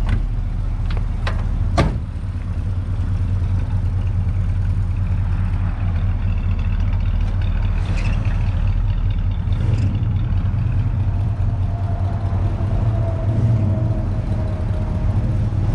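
1969 Chevrolet El Camino's 350 V8 idling steadily, with the exhaust leak that the owner puts down to the donut gasket at the back. A few sharp clicks in the first two seconds.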